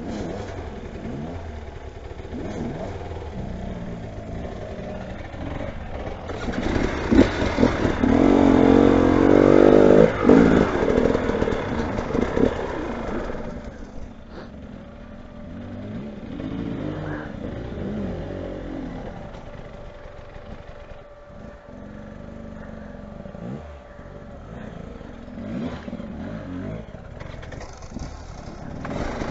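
Motorcycle engine revving hard and unevenly, loudest from about six to thirteen seconds in, then dropping to quieter running with short revs, and picking up again near the end.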